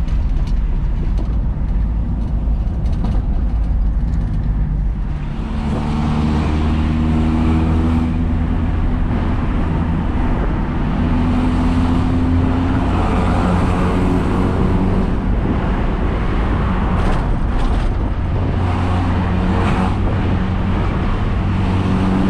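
Mitsubishi L300 pickup's engine heard through a newly fitted double-wound aftermarket exhaust while driving. A low rumble at first; about five seconds in, the engine pulls harder and its pitch climbs, then it settles into a steady deep bass drone.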